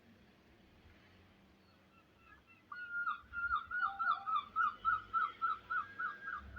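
A bird calling: a run of about a dozen short, slightly falling whistled notes, roughly three a second, beginning about two and a half seconds in.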